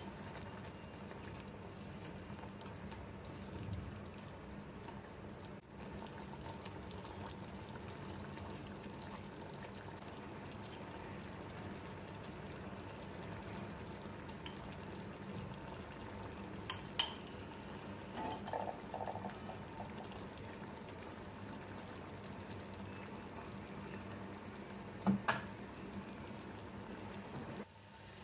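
Chicken masala gravy simmering in a non-stick pan with a faint steady sizzle, a wooden spatula stirring at times, and a couple of sharp clicks later on.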